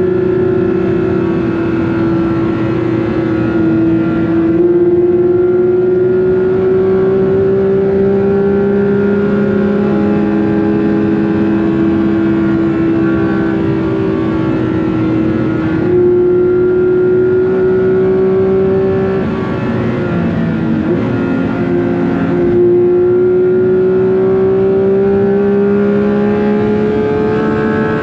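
Porsche 911 GT3 (992.2) naturally aspirated 4.0-litre flat-six at high revs under hard acceleration, heard onboard; the pitch climbs steadily through each gear and steps at the gear changes every few seconds, with a wobble around the two-thirds mark as it lifts and shifts down.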